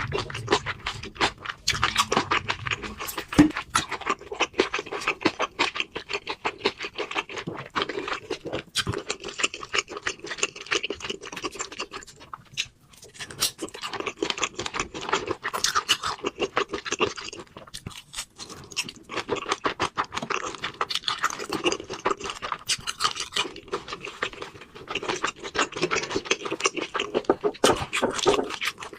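Close-up eating sounds: a fast, continuous run of chewing and smacking mixed with the clicks and scrapes of handling food, with brief lulls about thirteen and eighteen seconds in.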